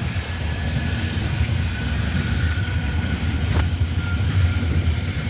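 A train passing on the line, a steady low rumble, with one sharp click about three and a half seconds in.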